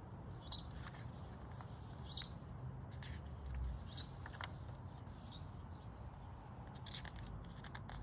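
Small birds chirping: short, high chirps every second or two over a low, steady outdoor background.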